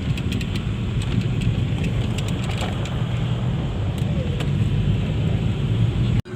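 Car on the move: a steady low road and engine rumble with light clicks and rattles, cutting off suddenly just before the end.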